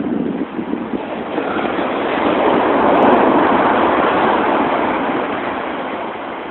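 Heavy storm surf breaking: a roar of rushing water that swells to a peak about halfway through and then slowly fades.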